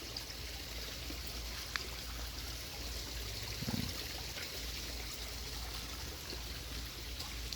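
Steady trickle of running water at the pond's waterfall filter box, with a faint click about two seconds in.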